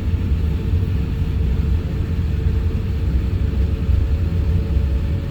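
Steady low rumble of an Airbus A350-1000 cabin, from the engines and airflow, with a constant hum running through it.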